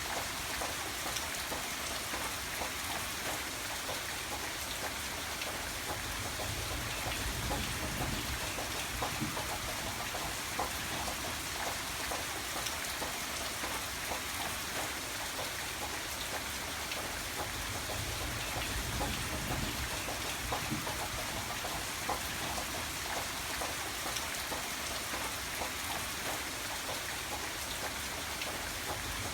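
Steady rain falling on a surface: an even hiss with many separate drops hitting.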